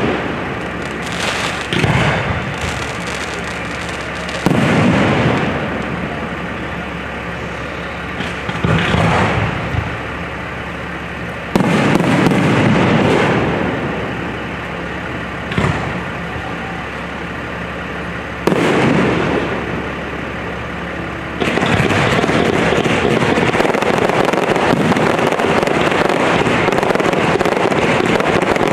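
Aerial fireworks bursting overhead: single loud booms every three to four seconds, each dying away over a second or two, then near the end a dense, unbroken stretch of many bursts together.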